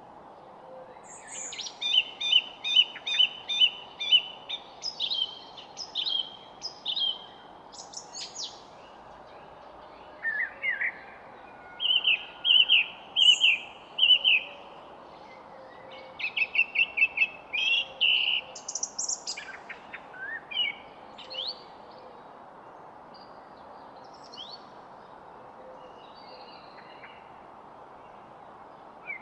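Wild songbirds singing in short phrases of quick repeated chirps, busiest for the first twenty seconds or so and then thinning to a few faint calls, over a steady hiss of background noise.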